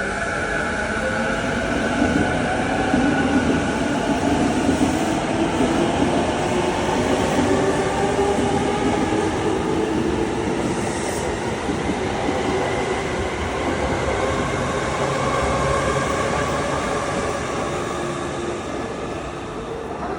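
Electric train running, a steady rumble with a motor whine that glides slowly in pitch.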